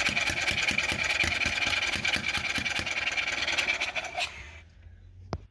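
Kawasaki golf-cart engine cranking over with the choke on but not catching: a fast, even pulsing with a steady whine. The cranking stops about four seconds in, and a single sharp click follows about a second later.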